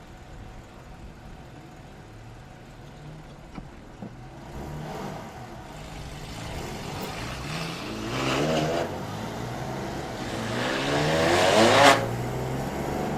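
Porsche engine accelerating hard under load on a race track, revs climbing to a peak about two-thirds of the way in, dropping at a gear change, then climbing again to a louder peak near the end before falling off sharply.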